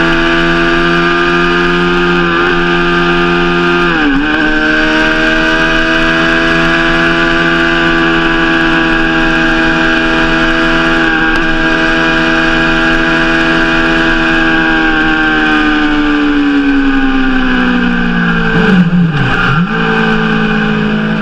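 Suzuki GSX-R600 K7 inline-four engine running loud through its exhaust at steady raised revs. The revs dip briefly about four seconds in, sink slowly later on, drop sharply and come back up near the end, then hold steady at a lower speed.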